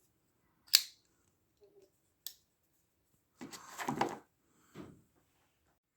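A sharp click, a fainter click a second and a half later, then two short spells of rustling handling noise.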